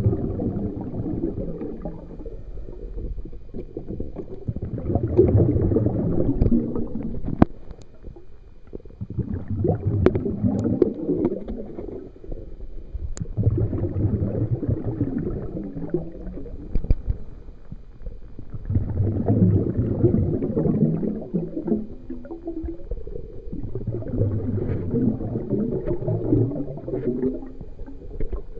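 Muffled gurgling and sloshing of lake water heard from a waterproof camera dunked under the surface, swelling in surges every four to five seconds.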